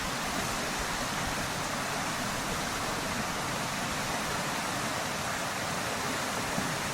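River water rushing over rapids, a steady even rush with no breaks.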